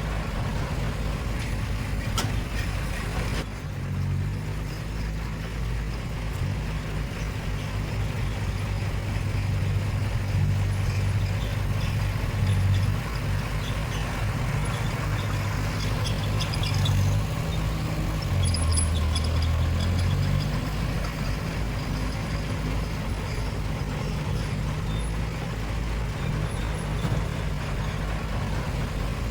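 Heavy diesel earthmoving machinery running: a steady low engine drone that shifts up and down in pitch several times.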